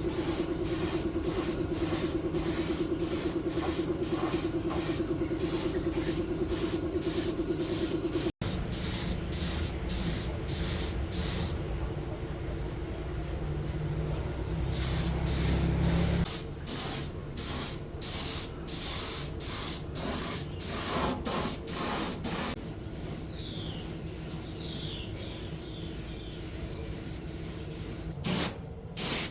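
Compressed-air spray hissing, broken by rapid regular pulses, with a steady hum underneath for the first several seconds before the sound cuts abruptly and resumes.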